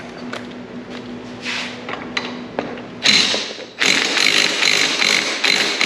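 Impact wrench on a 10 mm socket running in short bursts from about three seconds in, loosening the shock tower mount bolts; before that, a few light clicks of the tool and socket being handled.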